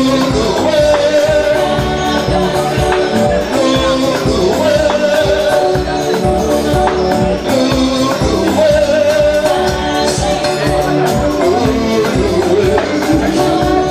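Live band music with a steady drum beat, bass and a held melodic lead line over the top.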